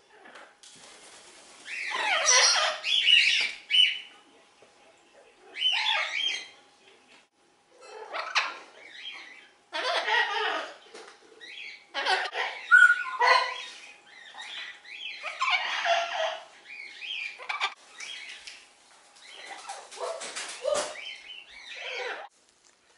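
Amazon parrots squawking and chattering in a series of irregular loud bursts, some harsh and some with sliding pitch, spread through the whole stretch.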